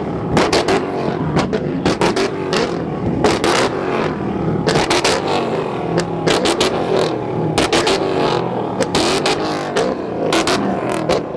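Car engines revving loudly, their pitch rising and falling, with many sharp cracks or pops scattered through.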